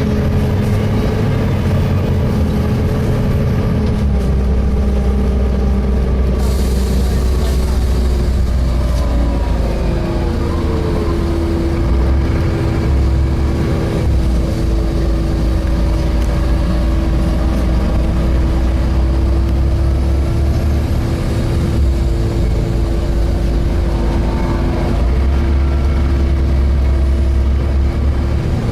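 Volvo B7TL bus running on the road, heard inside the saloon: low engine and road rumble with a steady whine from the engine cooling fan. The whine drops in pitch about nine seconds in and then holds steady.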